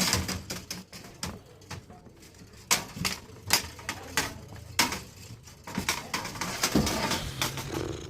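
Irregular clicks, taps and knocks of hand work on a refrigerator, with a few sharper knocks about three, three and a half and five seconds in.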